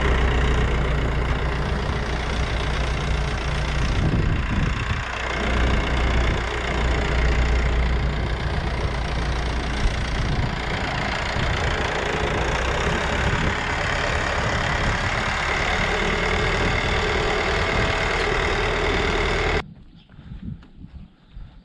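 Tractor engine running steadily, cutting off suddenly near the end and leaving only faint, uneven sounds.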